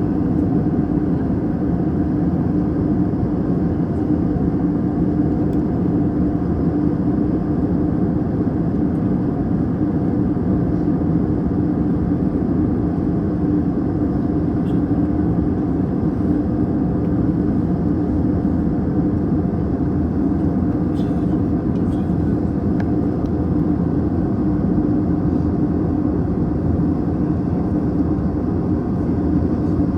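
Airbus A321 cabin noise in flight: a steady roar of jet engines and airflow, with a constant low hum running through it.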